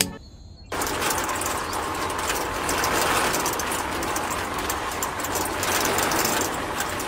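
Small electric motor of a miniature homemade concrete mixer starting abruptly about a second in, just after its rocker switch is flipped, then running steadily with a dense rattling whir as it turns the drum through its gears.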